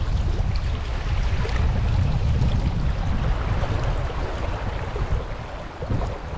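Fast river current rushing steadily close by, a continuous wash of water noise with a strong low rumble.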